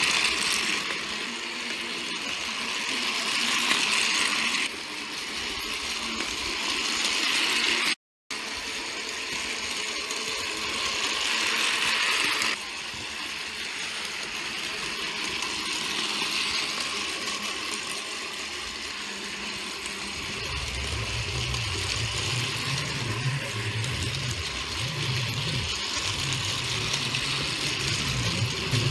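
A battery-powered Plarail toy train (Nankai 1000 series model) running along its plastic track, its small electric motor and gears whirring steadily. The sound cuts out for a moment about eight seconds in, and a lower rumble joins in for the last third.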